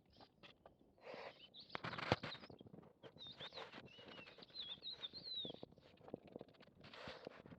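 Cats crunching and chewing food, a patter of small sharp clicks and rustles, with short bird chirps in the middle.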